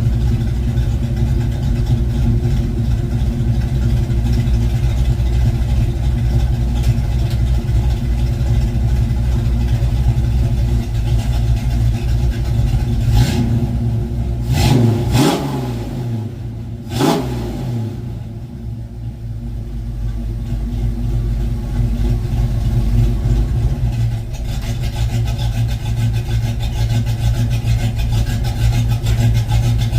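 1972 Ford Mustang Mach 1's V8, fitted with a Crane 2040 cam and a single 3-inch exhaust with a Black Widow Race Venom muffler, running steadily at idle. About halfway through, the engine note rises and falls briefly and the sound drops for a few seconds before the steady idle returns.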